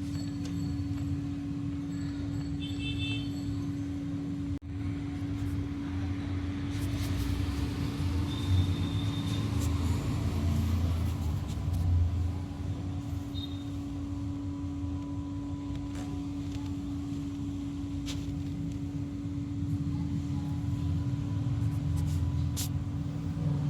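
Toy monster truck's motor running with a steady hum over a low rumble, with a brief drop about four and a half seconds in and a few light clicks.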